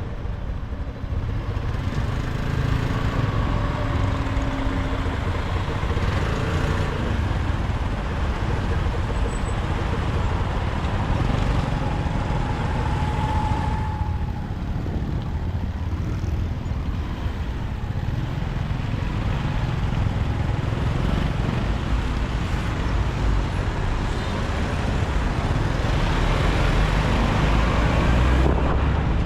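City traffic heard from a moving motorcycle: steady engine noise and road rush from the bike and the motorbikes and cars around it. A brief steady tone sounds about halfway through.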